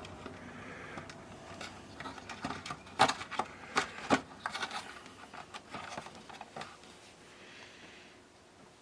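A small transformer being pushed and worked into a radio cassette player's plastic casing: irregular plastic clicks and knocks, the loudest a few sharp knocks around three to four seconds in.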